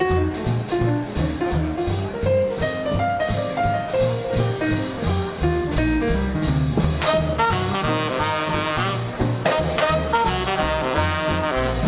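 Small-group swing band playing live: a steady walking bass pulse under a single melodic line. About seven seconds in, the horns (saxophone and trumpet) come in with held chords that waver with vibrato.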